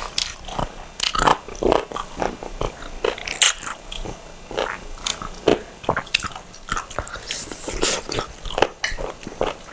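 Several people chewing grilled chicken and rice close to clip-on microphones: irregular smacking and clicking mouth sounds, several a second.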